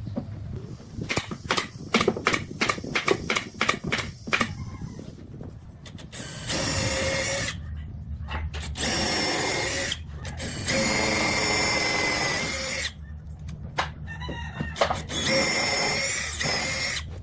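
A run of sharp knocks in the first few seconds. Then a handheld power tool, like a drill, runs in four bursts of one to two seconds each, starting and stopping abruptly with a high-pitched whine.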